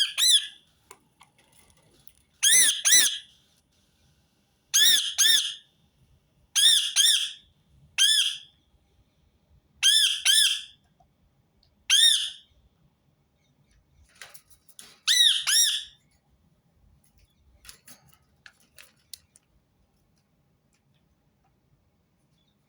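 Rose-ringed parakeet calling: short, harsh screeching calls, each rising then falling in pitch, given singly or in quick runs of two or three every couple of seconds, with fainter calls after about fifteen seconds.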